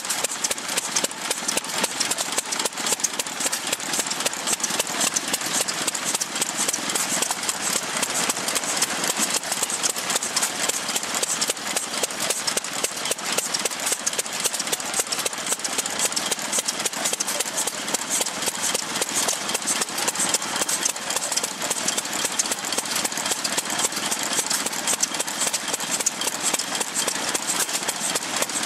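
1905 Crossley Bros Model H 2 hp gas engine running steadily, with a fast, even ticking.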